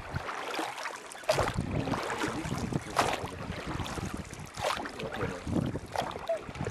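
Outdoor river ambience: steady rush of flowing water and wind on the microphone, with a few sharp knocks spaced a second or so apart.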